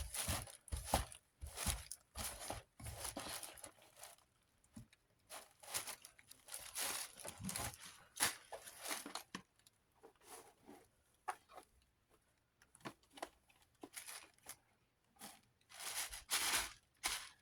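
Paper towel rubbing and crinkling against a fan's base in irregular scrubbing strokes, with short pauses between them.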